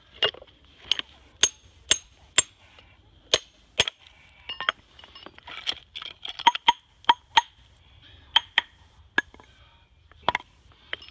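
Modified general-purpose hammer striking a raw Kyoto natural whetstone (Okudono/Renge suita from Umegahata) to split and chip it along its weak layers: about twenty sharp strikes at uneven intervals, several with a high, glassy ring. The ring of each blow is listened to as a tap test for where the stone's bond is weak.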